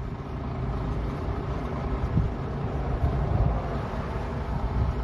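Heavy diesel equipment running steadily with a low engine rumble.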